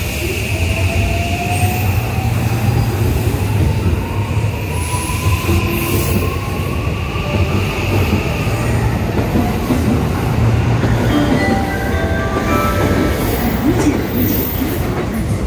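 Osaka Loop Line 323 series electric train pulling out of the platform. Its traction motors give a whine that rises in pitch as it picks up speed, over the rumble of wheels on rail. There are short squeaks from the wheels in the second half as the last cars pass.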